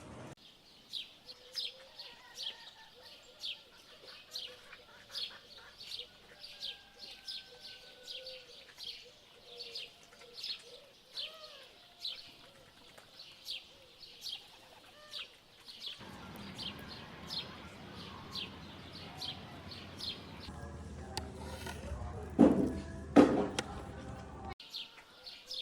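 Birds chirping: a short, high chirp repeated two or three times a second, with lower looping calls in the middle. Near the end two loud, sudden sounds stand out over them.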